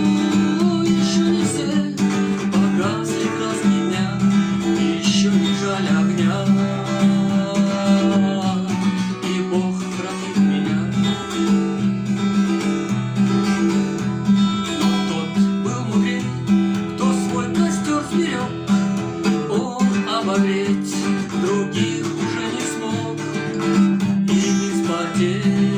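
Acoustic guitar strummed and picked, playing an instrumental passage of a song.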